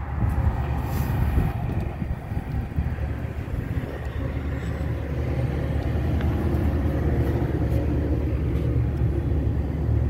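Steady low mechanical rumble of rooftop HVAC equipment running, with a few light clicks and knocks from hand work on the package unit.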